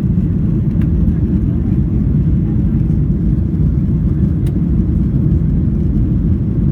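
Airliner cabin noise during the climb after take-off: a steady low rumble of engines and airflow.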